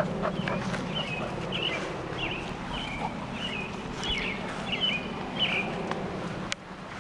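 A songbird calling outdoors: a run of about eight short, high chirps, roughly two a second, over a low background hum.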